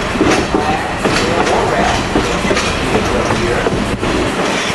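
Passenger train running on the rails: a steady rumble with irregular clicks of the wheels passing over the rail joints.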